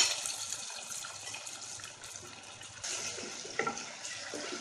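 Sliced onions and ginger-garlic paste sizzling in hot oil in a steel pressure cooker as they are stirred with a wooden spatula, a steady frying hiss with a brief knock of the spatula against the pot near the end.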